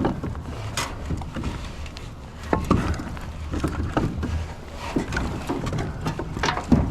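Split firewood pieces knocking and clunking against each other as they are handled, in irregular knocks over a steady low hum.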